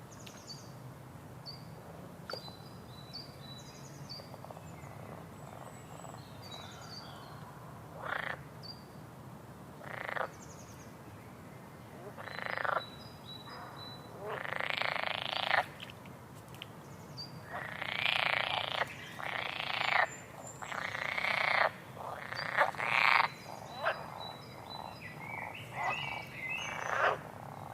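Frogs croaking, the calls coming more often and louder after about eight seconds, with short high bird chirps in the first few seconds.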